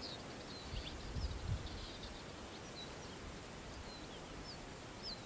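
Small birds chirping in short, high, scattered notes over faint outdoor background noise, with a brief soft low rumble about a second in.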